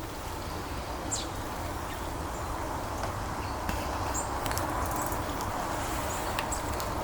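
Small birds giving short, high chirps every second or so over a steady outdoor background hum.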